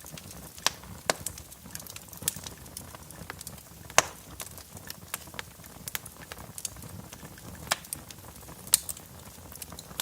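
Wood fire burning in a fireplace, crackling with irregular sharp pops over a low rumble; the loudest pop comes about four seconds in.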